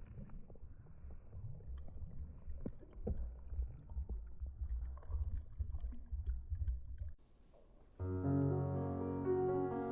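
Low rumbling noise with scattered clicks and knocks cuts off abruptly about seven seconds in. A second later a piano comes in with sustained, ringing chords.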